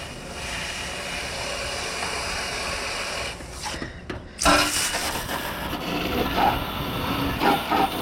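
Garden-hose water spraying onto the fins of an air conditioner's outdoor condenser coil, a steady hiss. About halfway through it drops away briefly, then comes back louder and more uneven.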